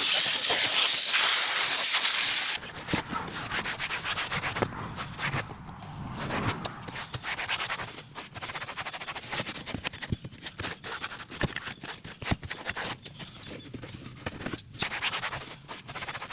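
A loud, steady hiss of a cleaning spray or air jet that cuts off suddenly about two and a half seconds in, followed by irregular scrubbing and rubbing strokes with small clicks, as a brush or pad works over a surface.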